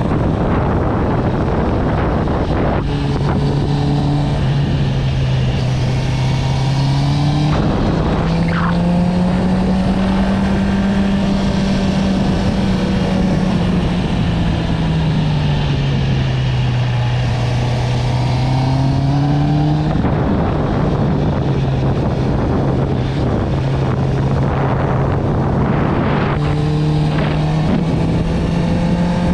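Honda CB650R inline-four with an Akrapovic exhaust running under way, its engine note rising and falling as the rider opens and eases the throttle, with spells of wind rush over the microphone.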